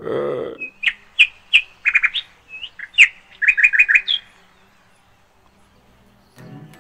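Small bird chirping: short, sharp, high chirps, then a quick run of repeated notes, stopping a little past halfway.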